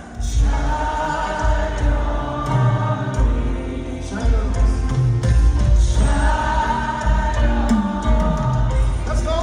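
Worship music: many voices singing a gospel song together in long held phrases over a band with a heavy bass.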